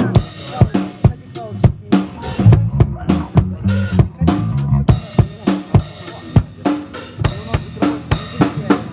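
Drum kit played in a steady rock beat, kick and snare hits with cymbals, over a low pitched line that moves in steps.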